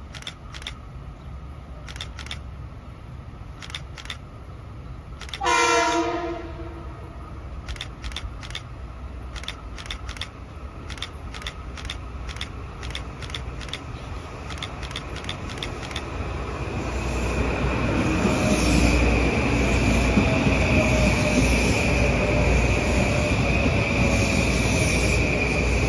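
Metro-North M8 electric multiple-unit train sounding its horn once, a blast of about a second, then approaching and passing close. Its wheel-on-rail rumble grows loud, with a steady high whine as the cars go by.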